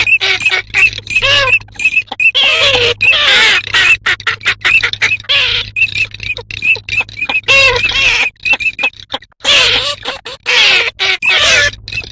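A dense, continuous flock chorus of migrating dabbling ducks (garganey, common teal and northern shoveler), rapidly repeated short high calls mixed with lower arched calls, over a steady low hum.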